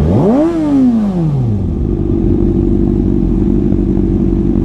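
Motorcycle engine revs sharply up and falls back over about a second and a half, then settles into a steady drone of riding at a constant speed.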